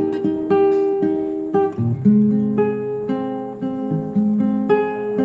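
Background music: acoustic guitar playing plucked, ringing notes and chords.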